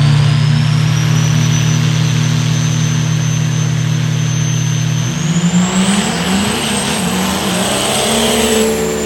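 A high-performance diesel truck engine running hard, with a loud, steady note and a high turbo whistle over it. About five seconds in, the engine note changes and sweeps in pitch while the whistle climbs higher and holds, then falls away near the end.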